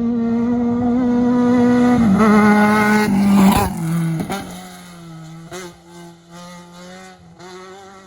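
Desert off-road race vehicle's engine at speed, getting louder as it comes close and passing about three and a half seconds in, its pitch dropping as it goes by. Afterwards the engine note goes on quieter, rising and falling with the throttle.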